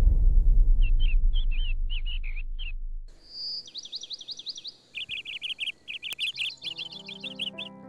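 Small songbird chirping: a run of short high chirps, then quick zigzag trilled notes and a dense rapid chatter in the second half. A low sustained music note fades out over the first three seconds, and music comes back in near the end.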